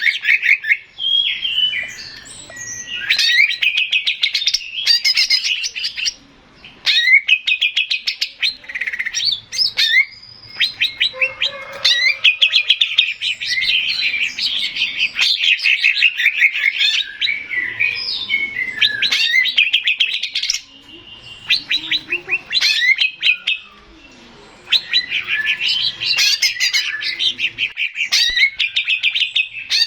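Male green leafbird (cucak ijo) singing a fast, chattering song of rapid trills and whistled notes, in long bursts broken by brief pauses.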